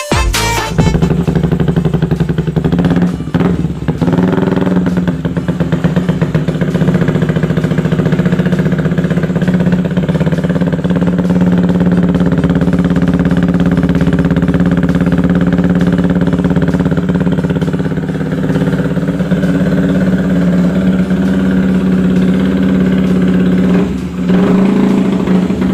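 Yamaha Vixion's 150 cc single-cylinder four-stroke engine idling through an aftermarket racing exhaust, mostly at a steady pitch, with brief changes in the engine note about 3 seconds in and again near the end.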